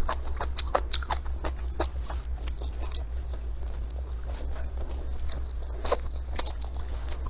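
Close-miked chewing of a mouthful of stir-fried velvet antler mushrooms with chicken, with irregular crisp crunches and two louder crunches about six seconds in, over a steady low hum.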